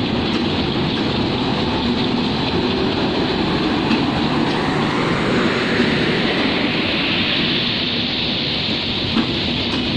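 Passenger coaches of an intercity train rolling past on the track: a steady rumble of steel wheels on rails, with a few faint knocks.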